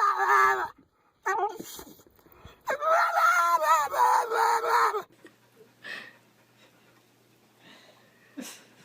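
An animal howling: long, wavering, pitched howls repeated several times, stopping about five seconds in.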